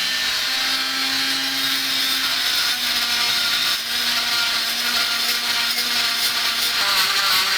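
Small high-speed rotary tool (Dremel type) grinding away at a seized engine mounting bolt and its bush, a steady high whine with little change in pitch.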